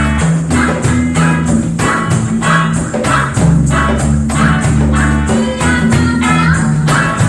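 Live band playing reggae, with bass notes under plucked strings and short strokes on a steady beat, about two a second.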